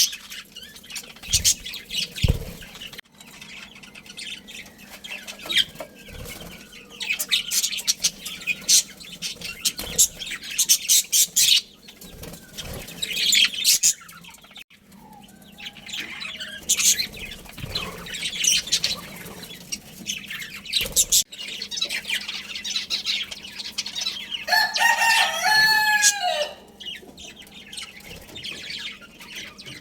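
A budgerigar colony chattering in quick, high, overlapping chirps. Near the end comes one louder call, lower in pitch and lasting about two seconds.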